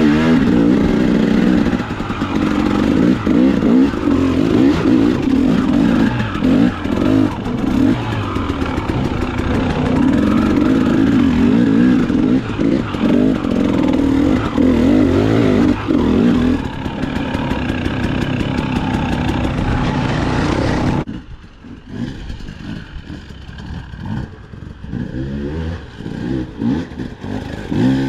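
KTM dirt bike engine running under load and revving up and down while riding rough single track, with some clatter and scraping. About two-thirds through it drops suddenly to a much quieter, lower running, then revs briefly near the end.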